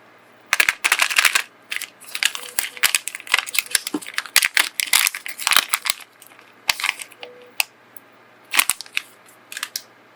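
Irregular crinkling, clicking and tapping of small nail supplies and packaging being handled, in quick bursts that thin out to a few sharp clicks near the end.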